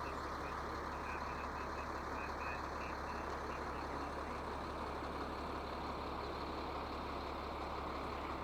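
Steady running noise over a constant low hum, with a few faint short high chirps during the first three seconds.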